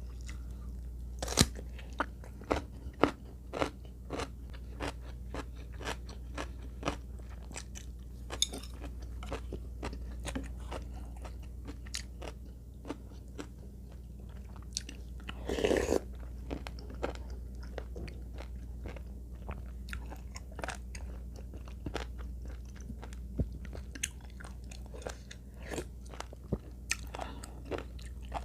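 Close-miked chewing and crunching of food, with many short sharp crunches and one longer, louder noise about halfway through. A steady low hum runs underneath.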